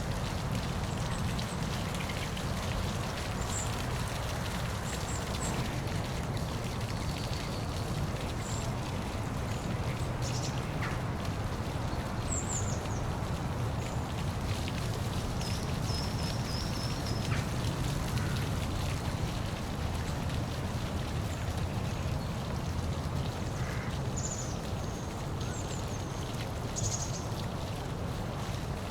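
Park waterfall: water falling in a steady, continuous rush with a deep rumble underneath, and brief high chirps scattered over it.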